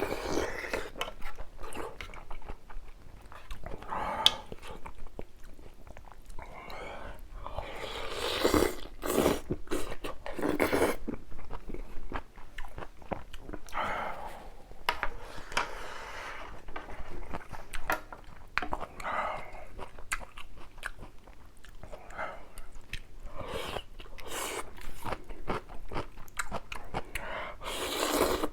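Close-miked eating: irregular chewing and crunchy bites of spicy ramyeon with rice and kimchi.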